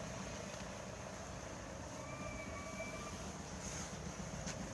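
Steady low rumble and hiss of vehicle noise, with a faint short tone about two seconds in.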